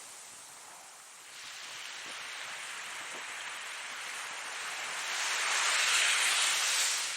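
Ocean waves: surf hissing in a steady wash, swelling as a wave breaks in the second half and falling away near the end.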